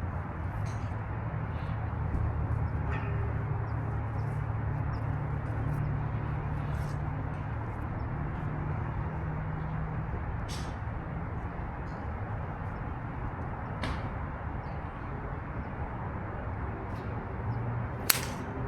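Golf club striking the ball off the tee: one sharp crack near the end, over a steady low rumble with faint scattered clicks.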